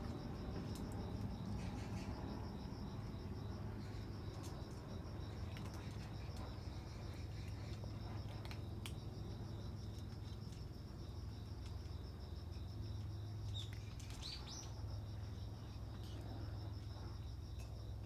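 Insects, likely crickets, trilling steadily in a fast, evenly pulsing chorus over a low steady hum, with a short high chirp about fourteen seconds in.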